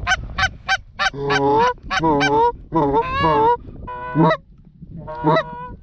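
Canada goose calls: a quick run of short clucks, about four a second, then a string of longer drawn-out honks with gaps between them.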